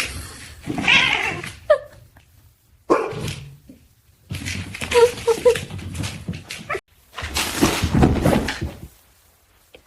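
A dog whimpering, with a falling whine and a few short high yips, in several abruptly cut segments broken by stretches of noise.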